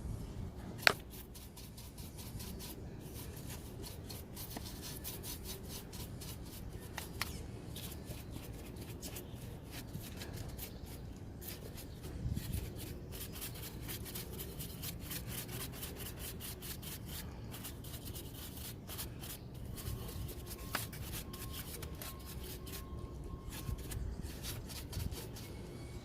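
Rapid, continuous scrubbing strokes worked by hand over engine-bay surfaces while detailing, with a single sharp click about a second in.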